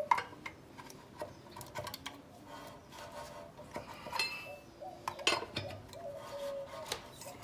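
Hand tools and metal parts clinking and knocking now and then as lug nuts are snugged on a truck wheel. A faint steady tone comes in about halfway.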